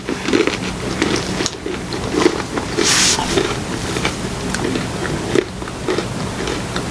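Biting into and chewing crunchy peanut butter-filled pretzel nuggets, a string of crunches with a louder crunch about three seconds in. The pretzel crumbles in the mouth on the bite.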